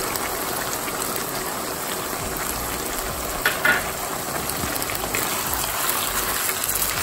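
Chicken pieces frying in hot oil in a pan on high heat, a steady sizzle, with a few brief clicks about three and a half seconds in.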